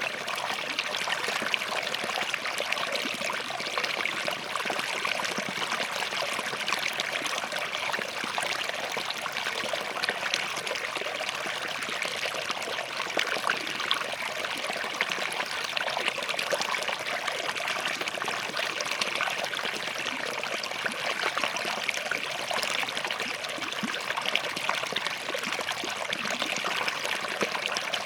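Small forest stream running over and between rocks: a steady, continuous trickling and splashing of water.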